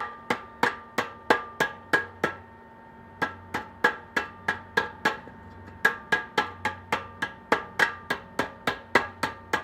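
A hammer striking the freshly welded steel exhaust pipe in quick, even blows, about three a second, in three runs with short pauses between them.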